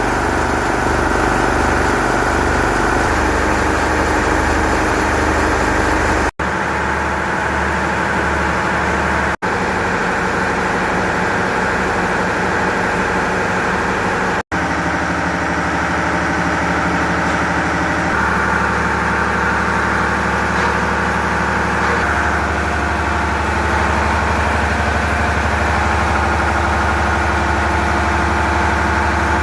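Large eight-cylinder Deutz SBA8M528 marine diesel main engine running steadily in a tug's engine room, heard in several clips joined by sudden cuts, its tone shifting a few times between clips.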